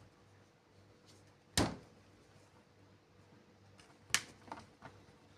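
Two sharp knocks about two and a half seconds apart, the second followed by a couple of fainter clicks, over quiet room tone: something being handled and set down.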